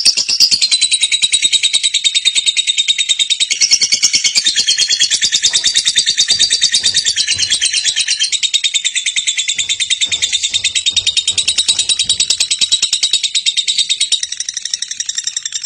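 Lovebird 'ngekek': a long, unbroken, high-pitched chattering trill of rapid pulses, sustained without a pause and shifting only slightly in pitch.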